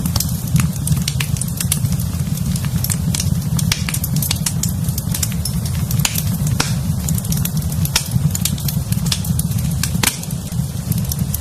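Fireplace fire burning, with many sharp irregular crackles and pops over a steady low rumble of the flames.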